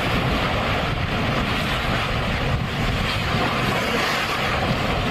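Steady rushing roar with a deep rumble from an erupting mud volcano, underground gas forcing mud and water up to the surface.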